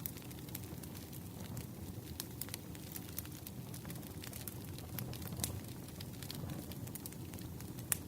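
Wood campfire crackling: a low, steady rumble with frequent sharp, irregular pops from the burning logs, one louder pop near the end.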